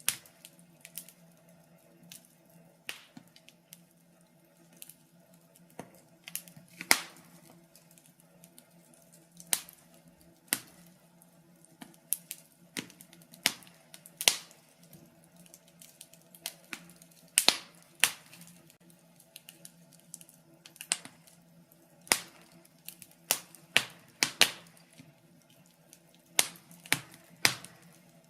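Wood fire crackling in a fireplace: irregular sharp pops and snaps of burning logs, a few of them louder, over a faint low steady hum.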